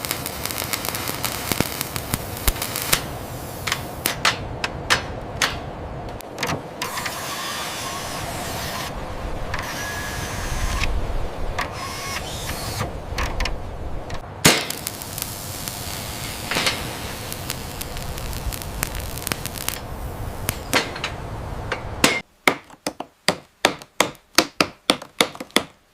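Repair work with hand tools: scraping, rubbing and clinking, ending in a quick run of about a dozen sharp hammer-like strikes, roughly three a second.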